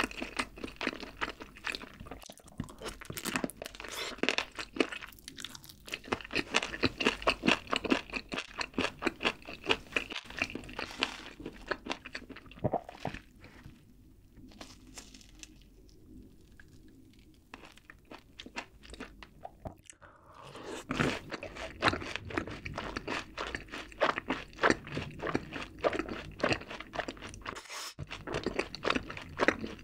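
Close-miked chewing of crunchy fried food, with rapid crisp crunches. The crunching eases off a little under halfway through and picks up again about two-thirds of the way in.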